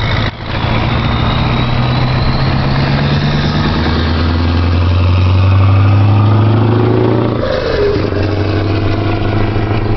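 Scania 143M's V8 diesel accelerating under load, its pitch climbing steadily; about seven and a half seconds in the note breaks and drops at a gear change, then climbs again.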